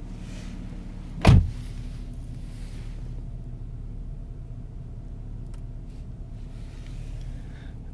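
Saab B235R 2.3-litre turbocharged four-cylinder idling steadily on a cold start, with one loud, short thump about a second in.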